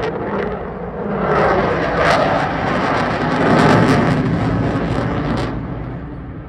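Eurofighter Typhoon fighter jet flying past, its engine noise swelling to a peak about three and a half seconds in with a crackling edge, then fading away.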